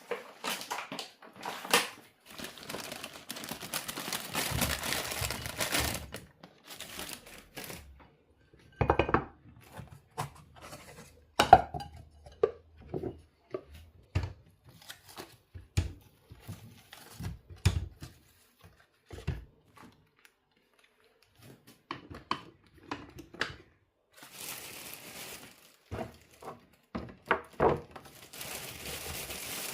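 Kitchen handling sounds: crinkling and tearing of packaging for several seconds at the start and again near the end, with a string of separate knocks and clinks of dishes and utensils in between.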